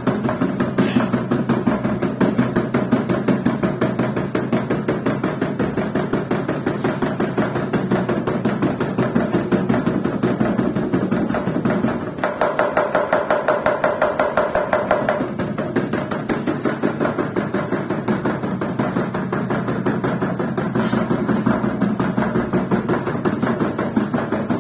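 Washing machine spinning with a fault, its drum knocking over and over at a few knocks a second. A buzzing, rattling tone joins in for a few seconds in the middle.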